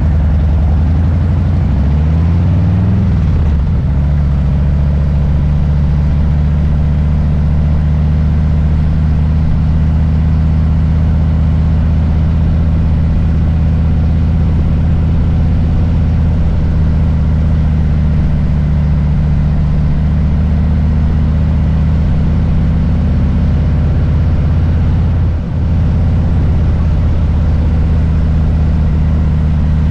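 Harley-Davidson Low Rider S Milwaukee-Eight V-twin engine running. Its pitch rises briefly in the first few seconds, then holds steady, with a short dip near the end.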